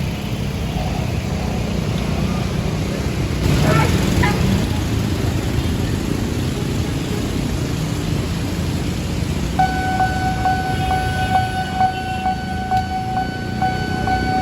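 Steady rumble of road traffic at a railway level crossing. About nine and a half seconds in, the crossing's electronic warning bell starts: a steady ringing tone that pulses about twice a second, signalling that a train is approaching.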